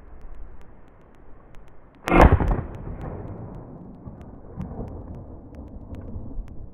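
A single shotgun shot about two seconds in, loud and sudden, its echo dying away over the next second or two over low wind noise.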